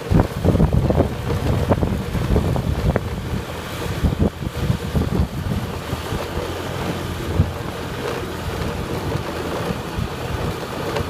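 Wind buffeting the microphone on a moving motorbike: a loud, uneven, gusty rumble.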